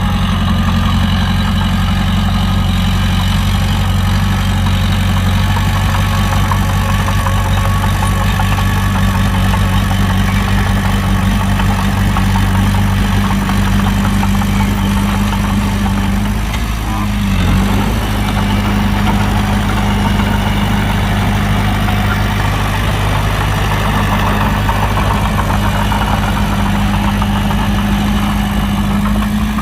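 Heavy diesel engine of earthmoving machinery running steadily, dipping briefly in pitch about halfway through before settling back.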